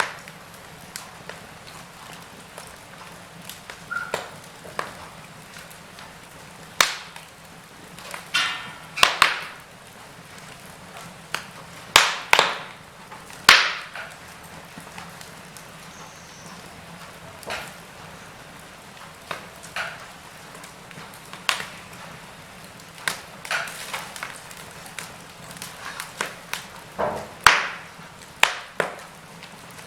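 Wood fire burning in a fireplace, crackling with irregular sharp pops and snaps over a low steady hiss.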